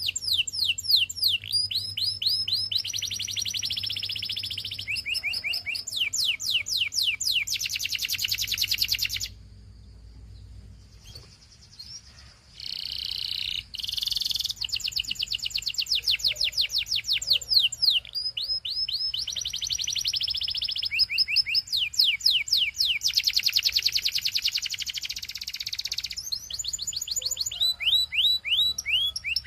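Canary singing: fast trills of repeated downward-sweeping notes alternating with dense buzzy rolls. The song breaks off for about three seconds about a third of the way in, then resumes.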